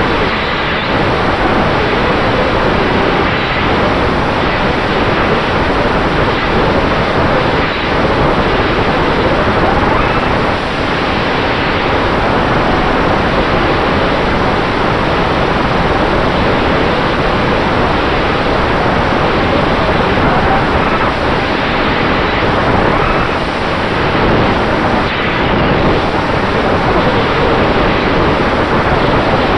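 Onboard sound of an FPV quadcopter in flight: a loud, steady rush of wind over the camera's microphone mixed with the hum of its Dragonfly Hurricane 2207 2500KV motors and Dalprop T5046C propellers, with a faint steady whine.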